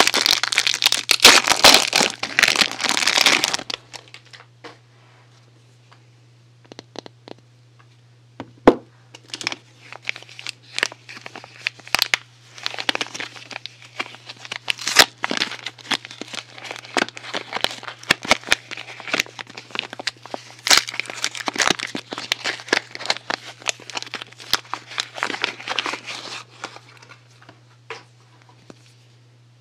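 Soap packaging being unwrapped: wrapping crinkling and tearing, dense for the first few seconds, then after a short lull sparser crinkles and small clicks that stop near the end. A faint steady low hum runs underneath.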